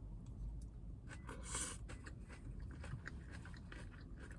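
A person chewing a mouthful of salad, with soft crunches and small mouth clicks. A brief louder crunch comes about a second and a half in.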